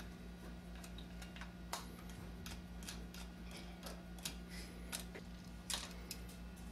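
Irregular small metallic clicks and taps of screws being driven into a Columbia automatic taper's head, over a steady low hum.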